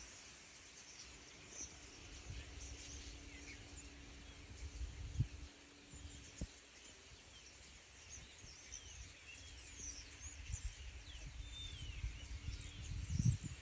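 Many small birds chirping and twittering, short high calls in quick succession, over low wind rumble on the microphone, with two brief knocks midway.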